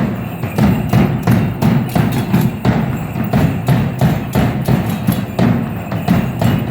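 Fast, steady drumming for the dance, about three to four beats a second.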